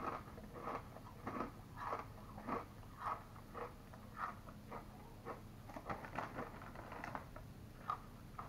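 A man chewing a hard, crisp kettle-cooked potato chip with his mouth close to the microphone. Quiet crunches come about two a second.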